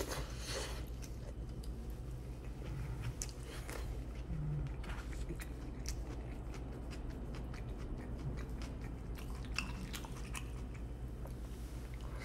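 Close-up chewing and crunching of mouthfuls of a steak, rice and lettuce burrito bowl, with small irregular clicks of a fork in the bowl.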